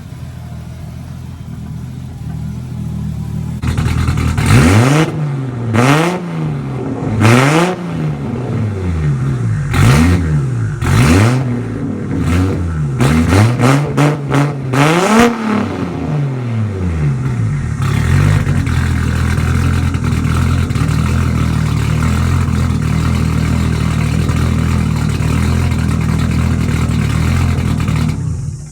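Turbocharged Nissan RB20E straight-six running on its first start through a makeshift test exhaust with a dump and screamer pipe. It idles, then is revved in about nine quick blips, the pitch rising and falling with each, before settling into a steady, slightly raised idle.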